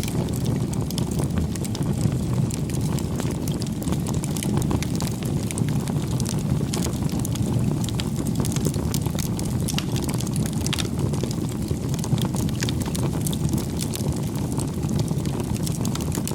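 Campfire burning: a steady low rush of flames with frequent small crackles and pops of burning wood.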